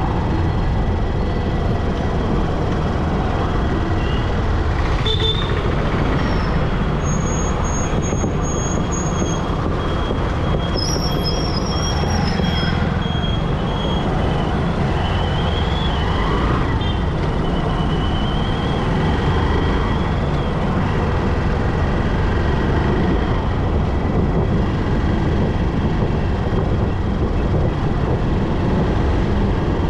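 Steady road and traffic noise from riding in city traffic, with thin high-pitched squeals or whines coming and going during roughly the first two-thirds.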